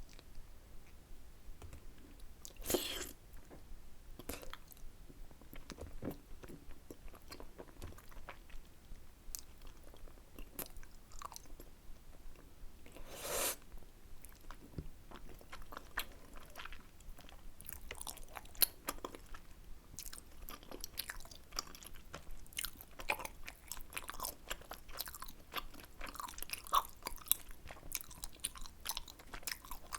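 Close-miked chewing of spicy tteokbokki rice cakes: a run of wet mouth clicks and smacks, with two louder brief rushes of noise, about 3 seconds and 13 seconds in.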